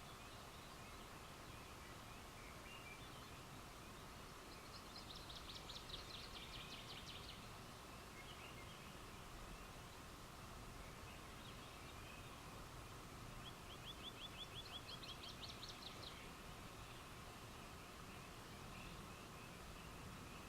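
Faint night ambience in which an animal gives a high, rapid trill twice, several seconds apart, the second starting lower and rising, over a steady faint background hum.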